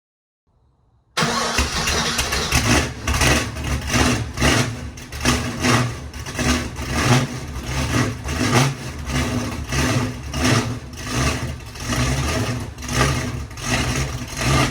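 406 small-block Chevy V8 cold-starting after sitting six months: a brief faint crank, then it fires about a second in and runs with its loudness surging and dropping about twice a second.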